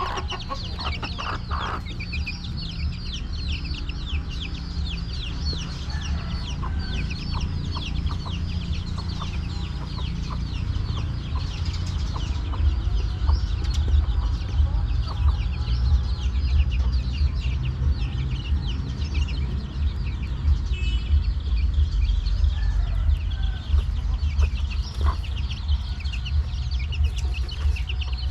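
A flock of chickens calling continuously, a dense stream of short, high, falling peeps, over a steady low rumble.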